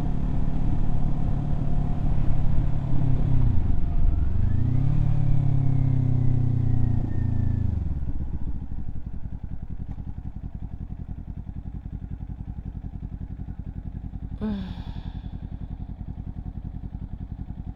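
Kawasaki Z400 parallel-twin engine under way: its pitch dips at a gear change about four seconds in and climbs again, then falls away as the bike slows. For the second half it settles into a steady idle.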